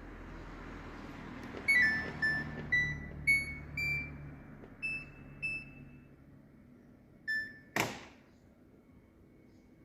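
Samsung Ecobubble washing machine playing its electronic beep melody, a run of about seven notes that mostly climb in pitch, while the machine's low running hum fades away. A single beep follows a few seconds later, then one sharp click.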